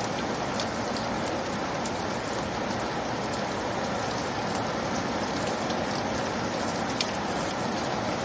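Steady rain falling, an even hiss with scattered drop ticks and one sharper tick about seven seconds in.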